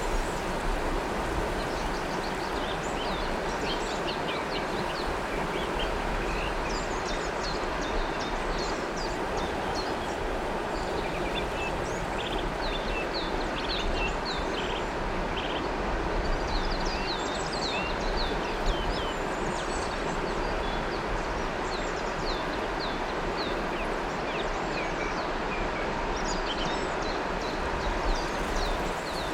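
River water flowing with a steady rush, with birds chirping on and off above it, most busily in the middle and near the end.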